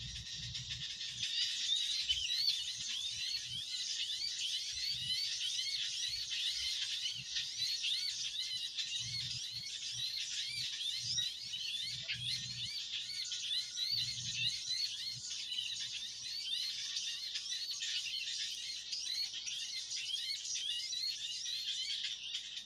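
Bird-call lure recording of a noisy flock: a dense, unbroken chorus of high, quick rising chirps overlapping one another, the loud 'baret merah' chirp call used to draw small birds in to glue sticks. A few soft low bumps sound underneath.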